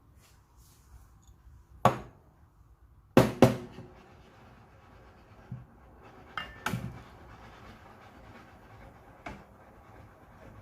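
Sharp knocks and clatter of metal espresso-making tools handled on a counter, the loudest a double knock about three seconds in, with a few lighter knocks after, over faint room noise.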